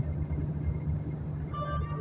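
Steady low rumble of a loaded truck driving, with music coming in about a second and a half in.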